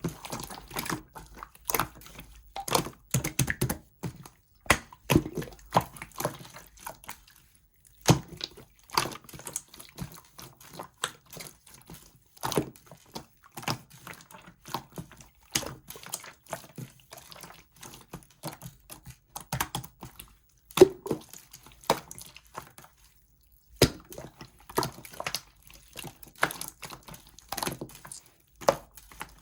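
Clear slime being squished and poked by hand, giving irregular wet clicks and pops, several a second with short pauses.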